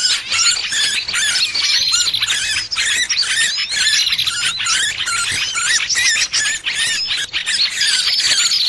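Bird-lure recording of a trapped small bird's distress calls: dense, rapid high squeaky chirps and squeals without pause, with a buzzy trill that comes back several times.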